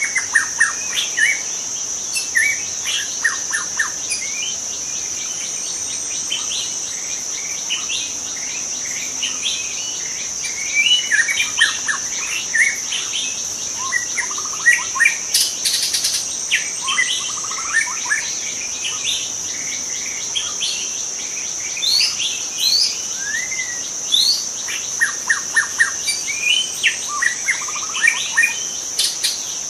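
Young white-rumped shama singing a varied run of short whistles, chips and quick trills, over a steady high-pitched insect drone.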